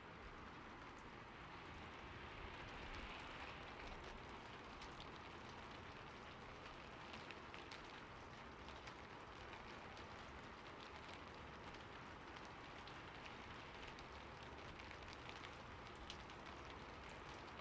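Faint, steady rain falling on a roof: an even hiss of rainfall with individual drops ticking scattered through it.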